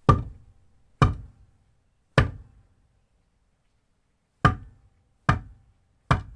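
A series of sharp single knocks, six strikes at uneven spacing, each dying away quickly with a short ring.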